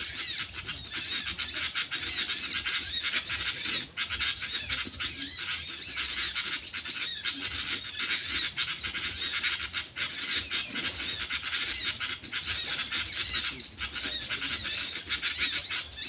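Small birds chirping: rapid, high, arched notes repeating almost without pause.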